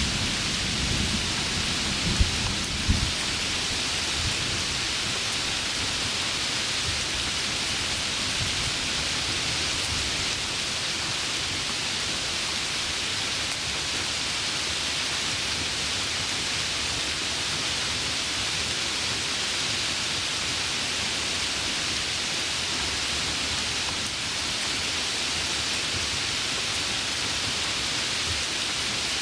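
Heavy rain falling steadily. A low rumble of thunder in the first few seconds peaks in two sharp claps, about two and three seconds in.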